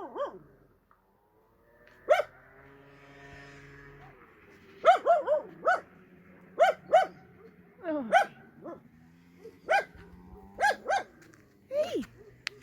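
A Podenco puppy barking: about a dozen short, high-pitched yaps at irregular intervals, some dropping in pitch.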